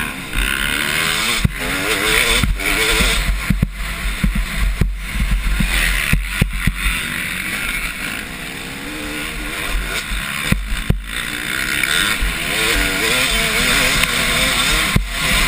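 Motocross bikes racing, their engines revving up and down through the gears with several engines overlapping. A low rumble of wind on the microphone lies under them.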